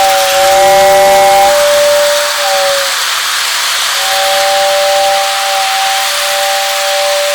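Whistle of a Lionel O scale toy steam locomotive blowing two long two-note blasts over a steady hiss. The first blast fades out about three seconds in, and the second starts about a second later.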